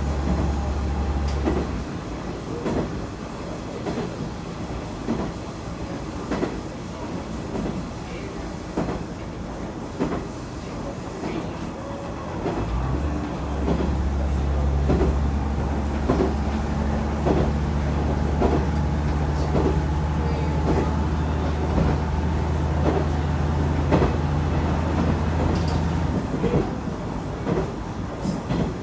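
KiHa 110 diesel railcar running along the line, its wheels clicking regularly over rail joints. The low drone of its diesel engine drops away about two seconds in, comes back in under power a little before halfway, and cuts out again near the end.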